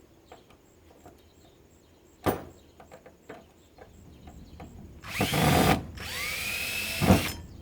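Power drill running twice in short bursts on an air purifier's housing during disassembly, each run spinning up with a rising whine. Before that comes one sharp knock and a few light clicks of parts being handled.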